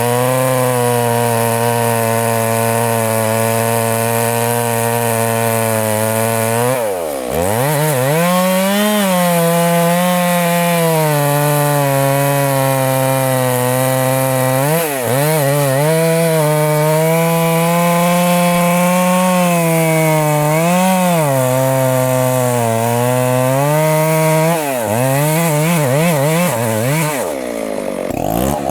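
Two-stroke chainsaw running at full throttle while cutting a very large tree trunk. Its engine note dips sharply about a quarter of the way in and again several times later, each time recovering, as the saw is loaded in the thick wood, then drops away near the end.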